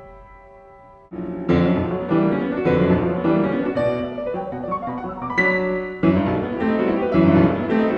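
Piano music with repeated chords, starting about a second in after the fading tail of a chime.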